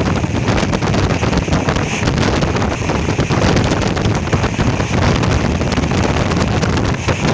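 Wind buffeting the microphone: a loud, unsteady rumble, heaviest in the low end, with no pitched tone in it.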